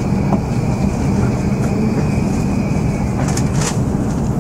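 E7-series Shinkansen train running at low speed as it pulls into the platform, heard from inside the car: a steady low rumble with a thin high tone that fades out about three and a half seconds in, and a couple of short clicks around the same time.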